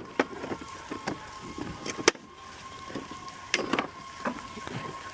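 Irregular knocks and clatter of junk and scrap metal being handled and set down, over a faint steady hum.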